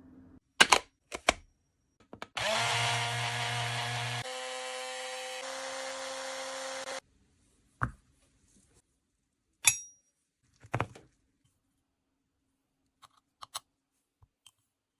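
A small electric motor spins up, runs steadily for about four and a half seconds with two sudden shifts in pitch, and cuts off abruptly. Loud sharp clicks come just before it, and a few more clicks and taps follow.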